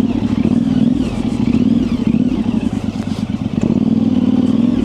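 2024 Yamaha Ténéré 700's parallel-twin engine running at low, wavering revs on the trail, with some clatter.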